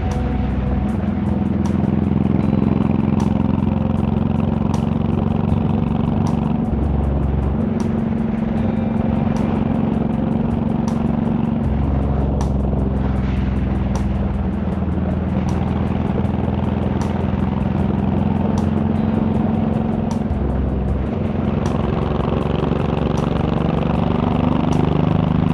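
Honda VTX1800's 1800 cc V-twin cruiser engine running at road speed. The engine note holds steady and shifts level a few times as the throttle changes.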